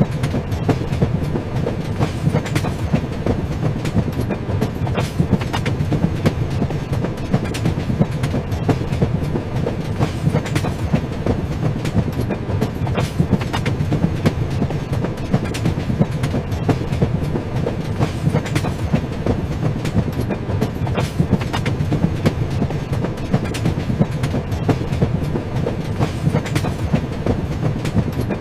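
Train running along the rails: a steady low rumble with frequent clicks and knocks from the wheels on the track joints.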